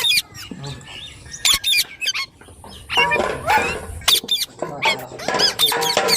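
Indian ringneck parrot squawking and chattering in quick bursts of sharp, high-pitched calls, busiest in the second half.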